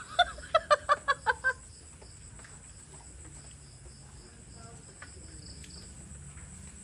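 A quick run of about seven short, pitched calls over the first second and a half, then a faint, steady, high chirring for the rest.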